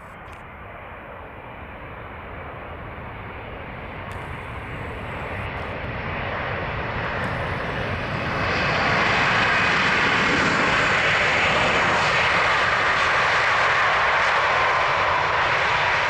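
Jet engines of a Boeing 767-400ER landing, a steady rushing noise that grows gradually louder, then about eight seconds in turns suddenly louder and hissier and holds there.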